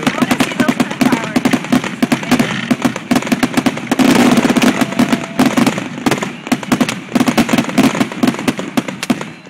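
Ground-launched consumer fireworks shooting up sprays of sparks, with dense, rapid crackling and popping and a louder rush of hiss about four seconds in.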